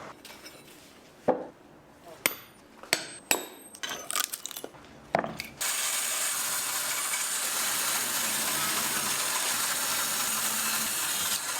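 Woodworking on a wooden moktak: a few sharp knocks and clicks of tools on wood, then, a little over halfway, a steady even whooshing noise starts suddenly and keeps on, like a power tool or air blower running.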